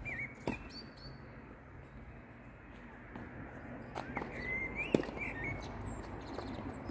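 Birds chirping in short, wavering whistled phrases, with a few sharp knocks of tennis balls being bounced and struck, the loudest about five seconds in.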